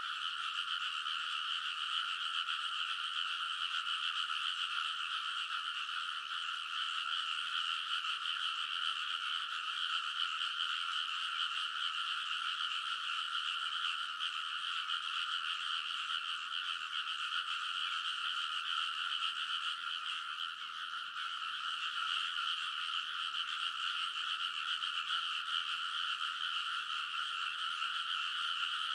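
Dense chorus of many frogs calling together from a rice paddy, a continuous, overlapping, noisy din of croaks without any break.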